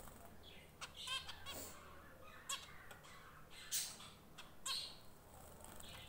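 Small pet birds calling: about six short, sharp chirps spread over a few seconds, with a quick run of rapid chirps about a second in.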